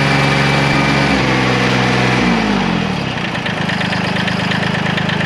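Tractor diesel engine running after air was bled from its fuel system. Its revs fall between about one and two and a half seconds in, then it settles into a steady idle.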